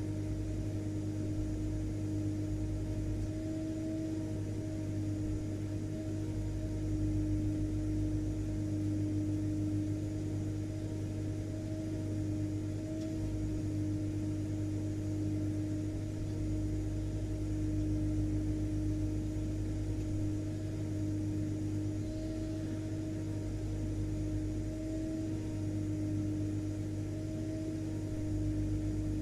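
Household vacuum cleaner running steadily at constant speed: an even motor drone with a clear, constant hum and a low rumble underneath.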